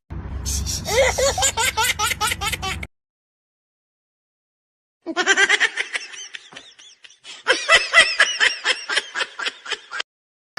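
Laughter in quick rhythmic bursts: two bouts of a few seconds each, separated by about two seconds of dead silence, each cutting off suddenly.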